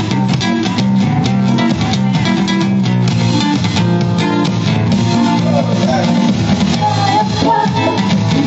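Music from a small band with no singing, led by guitar.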